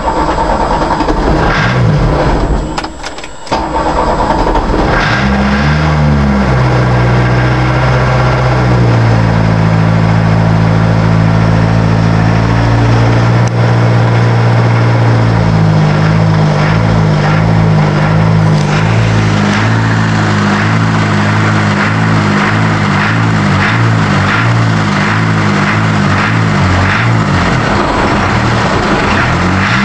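1982 VW Rabbit pickup's diesel engine being cranked and catching a few seconds in, then running with its speed rising and dipping and wavering unevenly instead of settling to an idle. The hard starting and lack of idle are a fault the owner puts down to the injection pump or injectors.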